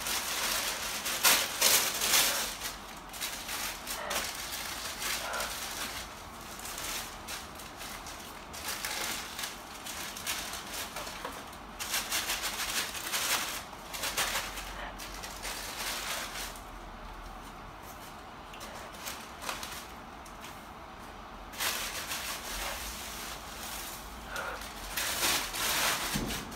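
Crinkling and rustling of a wrapping sleeve as it is pulled off a potted orchid. The crackling comes in bursts: loudest at the start, again about halfway through and near the end, with a quieter stretch in between.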